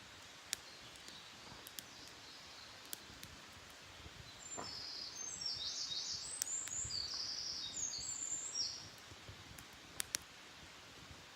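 Wild songbird singing a quick run of high, twittering chirps for about four seconds in the middle, with a few sharp pops from a wood campfire crackling now and then.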